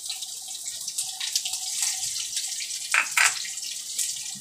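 Chopped green chillies sizzling and crackling in hot ghee with mustard seeds and curry leaves in an iron kadai, a steady hiss dotted with fine pops. A short clatter comes about three seconds in.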